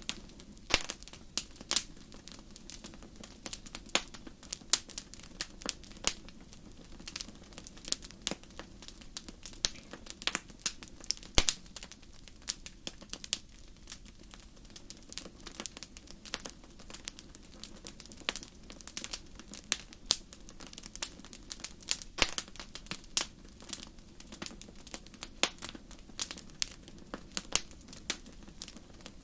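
Campfire of burning wood crackling, with irregular sharp pops several times a second over a steady low rush of the flames.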